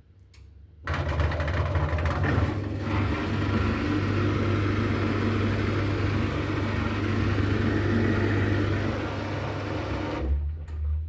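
Indesit washing machine running through its spin programme: a loud, steady hum with a rushing noise. It starts abruptly about a second in and cuts off suddenly near the end, leaving a brief low hum.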